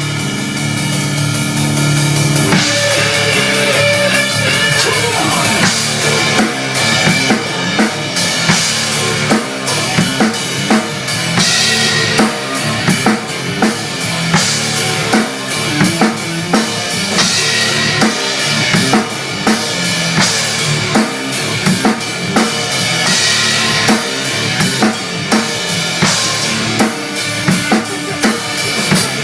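Drum kit played fast and hard, kick, snare and rimshots, over a recorded rock track.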